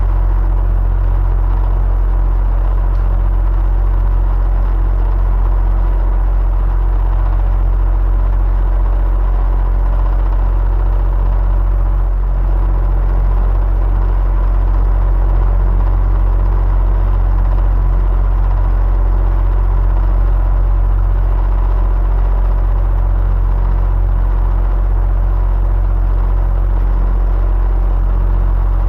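Electric fan running steadily, with a deep low hum and a few faint steady tones above an even rush of air.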